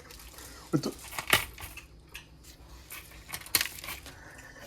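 A few sharp knocks and clinks of dishes and utensils being handled during cookie baking, with a brief vocal sound about a second in.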